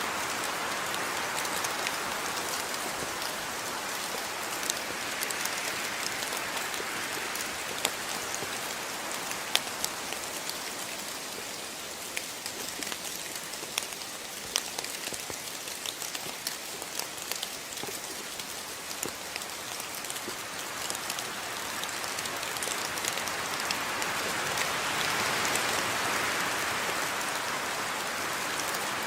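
Steady rain falling on a surface, an even hiss with scattered sharp drop ticks, swelling a little in intensity near the end.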